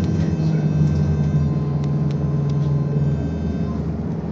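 Ride noise of a BKM-221 trolleybus: the running vehicle's low, steady hum with a faint high whine above it, the hum easing a little about three seconds in. A few faint clicks.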